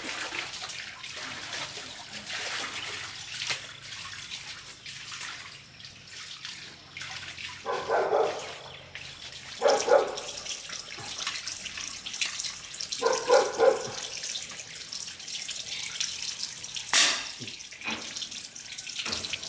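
Water running steadily, like a tap into a basin. Short pitched calls come through three times, and there is one sharp knock near the end.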